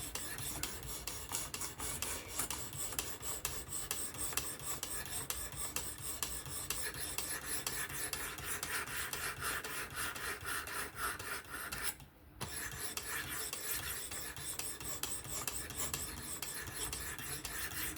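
Spyderco Kapara's S30V steel blade being stroked along the abrasive stone of a Work Sharp Professional fixed-angle sharpener: a steady run of rapid rasping strokes. The strokes break off briefly about twelve seconds in, then carry on.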